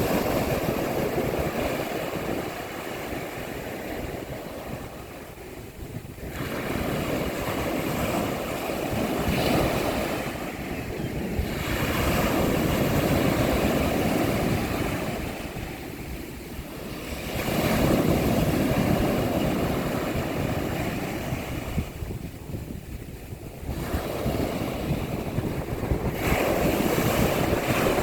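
Sea waves breaking on a beach. The surf swells and ebbs in a rushing wash, a new wave coming in about every five to six seconds.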